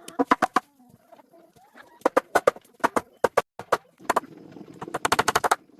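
A series of sharp knocks: single strikes spaced a few tenths of a second apart, then quick runs of about ten a second from about four seconds in.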